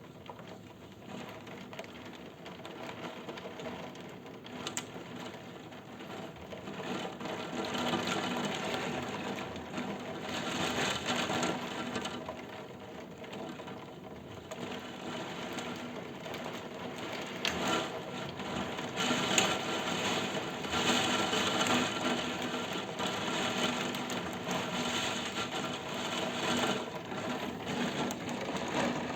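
Heavy rain from a thunderstorm pattering and drumming on a surface, a dense rapid patter that grows heavier about seven seconds in.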